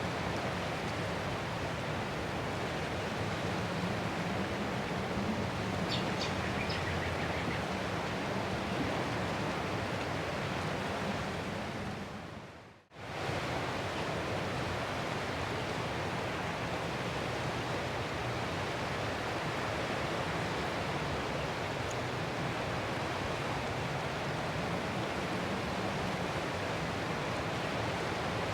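Ocean surf washing continuously, an even rushing noise with little rise and fall. About halfway through it fades down to a moment of near silence and comes straight back, as at a loop point in the recording.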